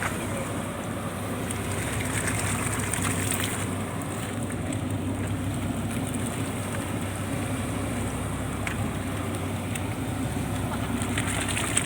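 Purse seine fishing boat's engine running steadily, a constant low hum.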